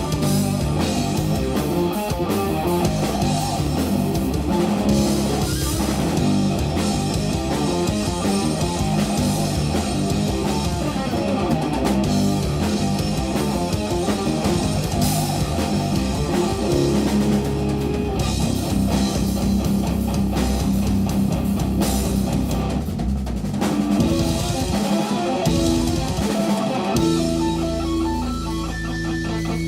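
Live instrumental jazz-rock fusion from a guitar, bass and drums trio: electric guitar over bass and a busy drum kit. Near the end the drums drop out, leaving held guitar and bass notes.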